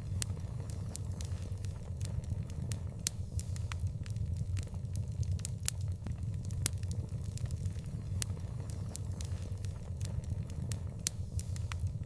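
Wood fire burning: a steady low rumble under frequent sharp crackles and pops at irregular intervals.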